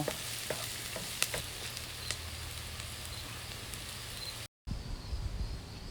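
Food sizzling in a frying pan, a steady hiss with a few light clicks, broken by a sudden brief dropout about four and a half seconds in.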